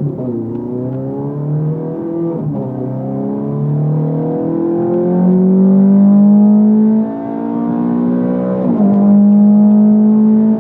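Ferrari 430 Scuderia's V8 accelerating hard, its note climbing steadily through each gear and dropping sharply at quick upshifts about half a second, two and a half and nearly nine seconds in.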